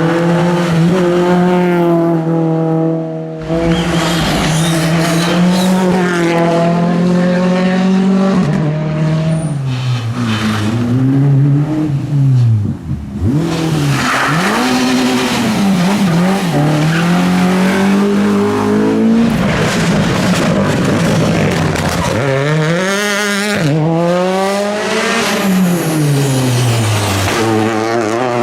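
Rally car engines revving hard, their pitch climbing through the gears and dropping again under braking, in several passes with abrupt changes between them.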